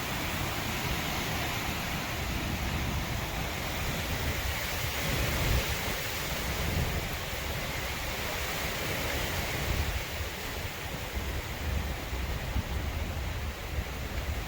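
Strong windstorm wind blowing, a steady rush with a low rumble that rises and falls, swelling slightly about five seconds in.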